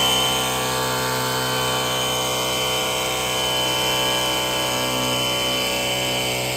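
Battery-powered portable pressure washer running steadily, its motor and pump making an even hum with a thin high whine on top.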